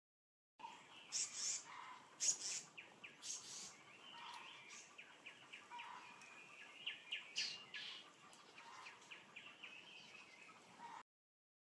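Wild birds calling: sharp high chirps and quick runs of short notes, with a soft lower note now and then. The sound cuts in abruptly and stops abruptly.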